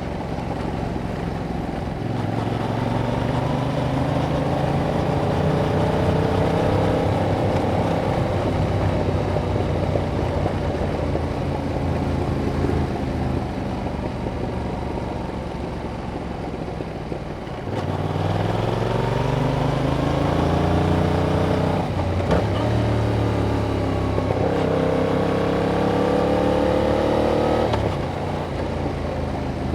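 Yamaha MT-07's parallel-twin engine through its stock exhaust, riding under load. The revs climb over the first few seconds, then hold and ease off. About eighteen seconds in they climb hard again through a series of rising pulls, and drop back near the end.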